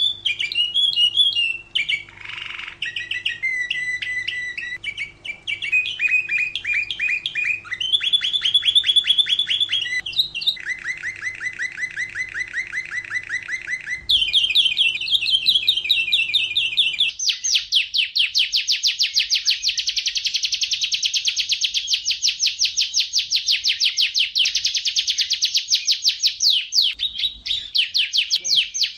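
Domestic canary singing a long song made of fast trills, each run of repeated notes giving way to a new one every second or two. A little past halfway a high, very fast trill begins and runs for about ten seconds. A low steady hum behind the song cuts off suddenly where that trill begins.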